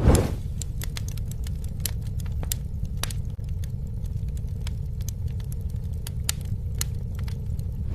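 Campfire crackling: a steady low rumble of burning wood with scattered sharp pops and snaps at irregular intervals. A brief louder rush comes right at the start and again at the very end.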